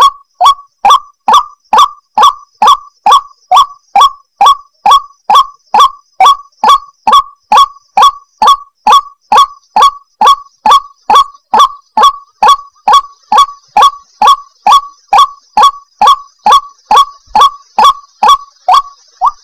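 White-breasted waterhen (ruak-ruak) calling over and over in a steady, unbroken rhythm, a little over two short calls a second, each note dropping slightly in pitch: the monotonous call used to lure wild waterhens.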